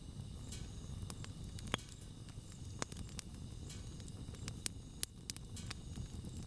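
Wood campfire burning: a low steady rumble of flames with scattered sharp crackles and pops, the loudest a little under two seconds in and about five seconds in.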